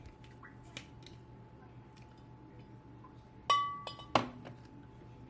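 A glass clinking: two sharp clinks about two-thirds of a second apart, the first ringing on briefly with a clear tone. Before them there is a faint tap.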